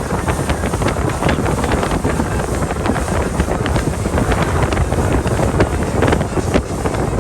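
Wind buffeting the microphone aboard a speedboat running at speed: a loud, dense rushing with constant uneven gusts.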